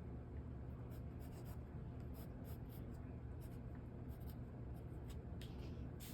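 Faint scratching of a drawing tool on paper, short strokes coming in irregular clusters, over a low steady hum.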